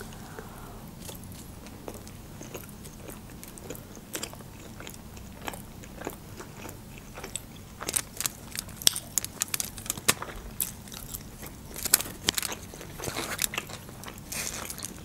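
People chewing sushi rolls: a run of short wet mouth clicks and crunches, sparse at first and much more frequent in the second half.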